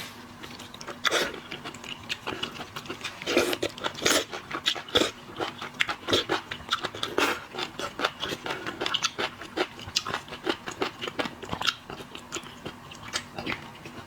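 Close-miked eating of seafood: irregular crunching, biting and wet chewing, many sharp crunches in quick succession.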